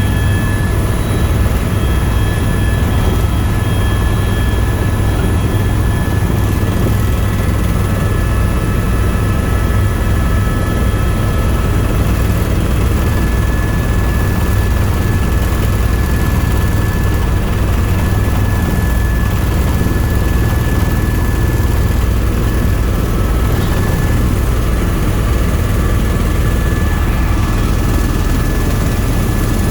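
Tour helicopter in flight: its turbine engine and rotors running steadily as a constant low drone, with a faint steady whine above it.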